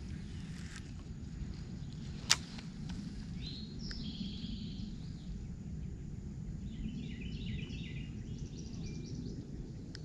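Songbirds chirping in short runs over a steady low rumble, with a single sharp click about two seconds in.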